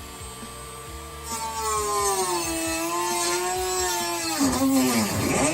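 Dremel rotary tool with a small cut-off disc: a steady high whine, then about a second in it bites into the ceiling material and gets much louder, its pitch sagging under load. Near the end the motor's pitch drops steeply as it winds down, with the thin cut-off wheel breaking.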